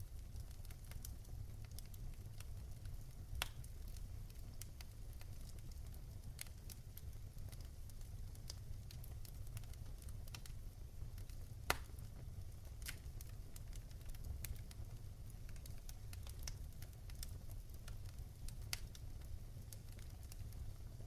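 Fire crackling in a fireplace: irregular sharp pops and snaps over a low, steady rumble, with the loudest pop about twelve seconds in.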